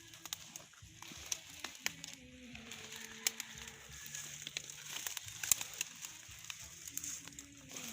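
Irregular crackling and rustling, many small sharp clicks at uneven intervals, over a steady high hiss.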